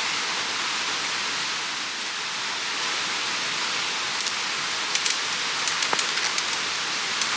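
Mountain stream rushing steadily, with a scattering of sharp clicks and ticks over the second half.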